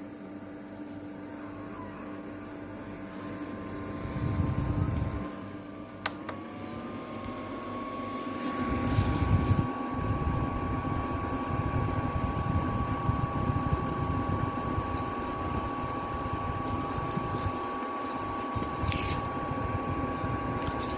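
Small electric fan motor of a portable air cooler running with a steady whine. A click about six seconds in, after which the whine rises a little and settles at the new pitch, with a low rumbling rush of air from then on.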